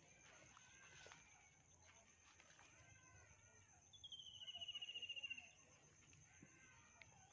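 Quiet outdoor ambience with a steady high-pitched buzz. About four seconds in, a bird sings a fast descending trill lasting about a second and a half, the loudest sound here.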